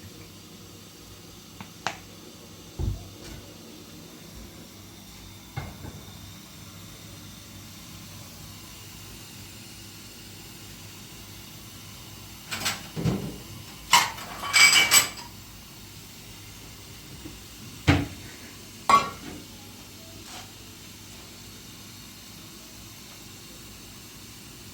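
Hard objects being handled and set down: a few scattered knocks, then a cluster of ringing clinks about halfway through, and two sharp knocks near the end.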